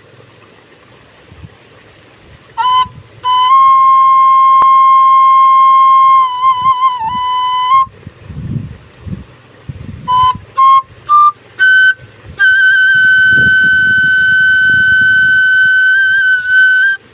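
Sundanese bamboo flute (suling) playing a slow phrase: a long held note with a quick ornamental waver before it drops, a few short notes stepping upward, then a higher long held note with small trills. Gusty wind rumbles on the microphone underneath.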